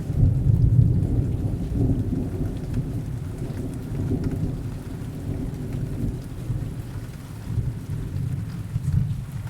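Heavy rain falling steadily, with a long low rumble of distant thunder that is loudest in the first second or two and slowly dies away.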